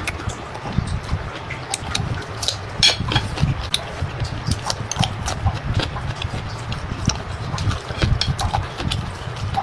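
Someone eating close to the microphone: chewing with irregular wet smacks and clicks over soft low thumps.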